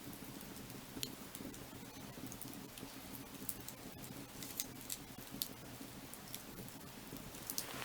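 Burning firewood crackling, with scattered sharp pops over a steady low sound from the fire.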